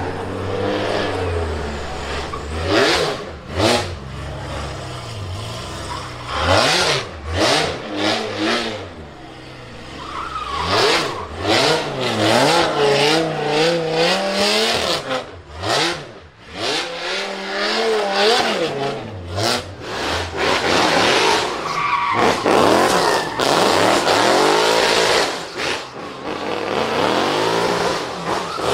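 Drift car engine revving hard up and down while its tyres squeal and skid, the engine note rising and dropping again and again with sudden sharp breaks.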